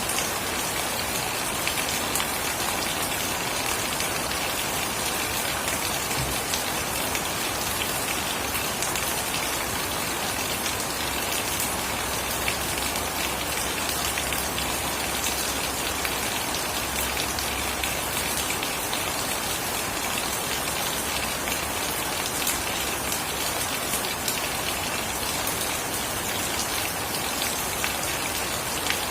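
Steady rain falling and pattering on surfaces, with many fine drop ticks. A faint low rumble runs under it for several seconds about midway.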